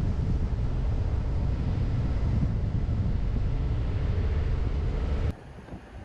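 A car driving, with a steady low rumble of road and engine noise. It cuts off abruptly about five seconds in to a much quieter background.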